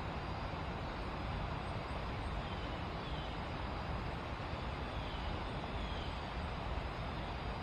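Steady rush of river rapids, an even wash of moving water, with a few faint short chirps over it.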